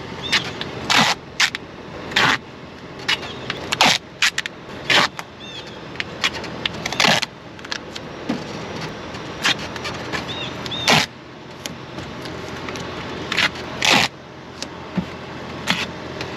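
Duct tape being ripped off the roll and torn, in many short, harsh tearing bursts at irregular intervals, for re-taping a loose car bumper.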